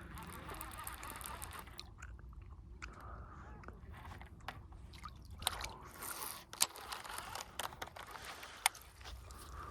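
Baitcasting reel being cranked to retrieve a big bait: a grinding, gear-driven whir with scattered sharp clicks over low wind rumble.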